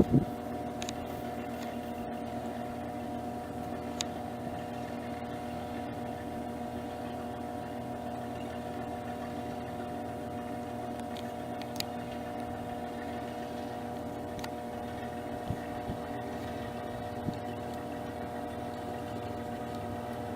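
Steady drone of a light aircraft's piston engine running at constant speed, with a few faint clicks.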